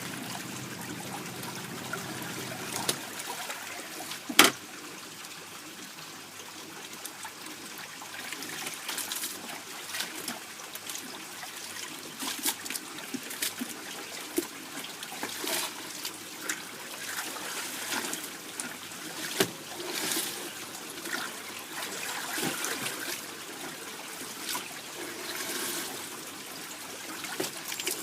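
Water trickling and splashing in a twin-tub washing machine, with many small irregular splashes and one sharp knock about four seconds in.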